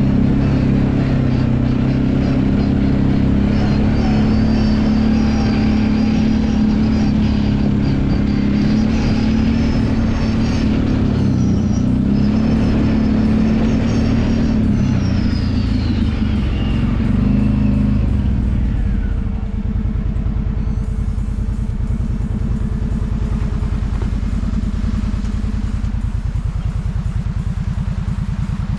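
Kawasaki Brute Force 750 ATV's V-twin engine running under throttle, then dropping to a lower, pulsing idle about two-thirds of the way through, with a brief dip and rise in pitch near the end.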